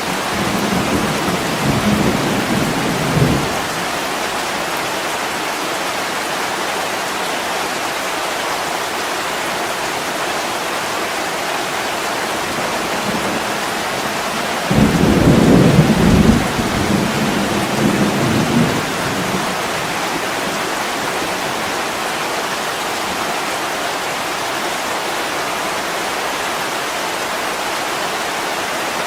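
Heavy rain falling steadily, with low rolls of thunder: one rumbling in the first few seconds, and a louder one from about 15 s in that fades out by about 19 s.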